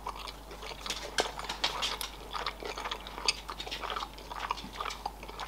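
Person chewing a mouthful of sushi roll, with many small wet mouth clicks and smacks.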